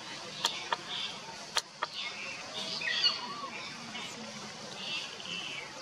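Birds chirping with short high calls and a falling call about three seconds in, with four sharp clicks in the first two seconds.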